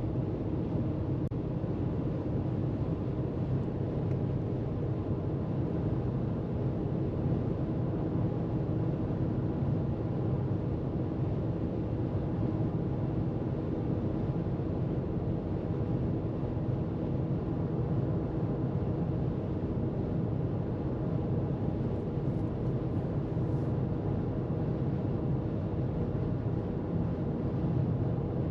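Car cruising at freeway speed: a steady rumble of tyres on the road with a low engine drone, unchanging throughout.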